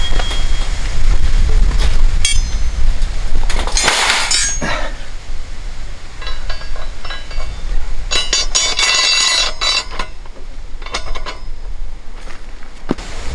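Hard items clinking and knocking as they are handled, with a loud rustling burst about four seconds in and more rustling and clicking a few seconds later.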